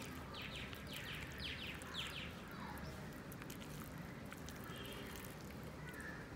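A bird calling, a quick run of about six falling chirps in the first two seconds, over a faint outdoor background.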